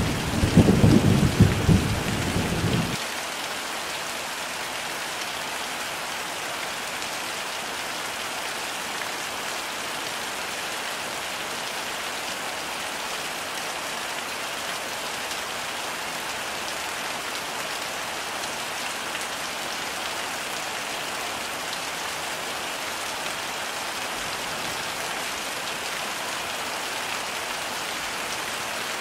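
Heavy rain falling steadily, an even hiss, with a rumble of thunder that dies away about three seconds in.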